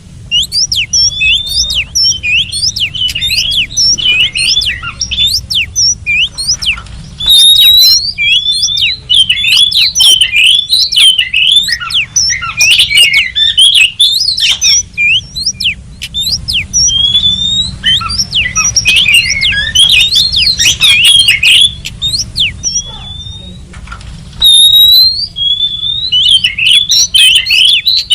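Oriental magpie-robin (kacer) singing a long, varied song of quick whistled notes that slide up and down, with short pauses about 6 s and 23 s in. A low steady hum runs underneath.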